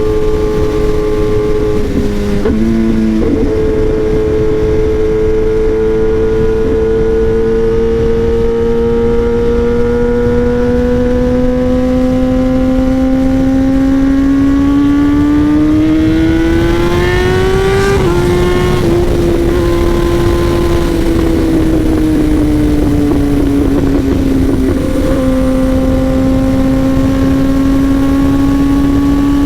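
Kawasaki ZX-10R's inline-four engine through an SC-Project exhaust, ridden on the road: a gear change a couple of seconds in, then revs climbing steadily for about fifteen seconds. Another shift follows, then revs falling off for a few seconds, a further gear change, and an even pitch to the end.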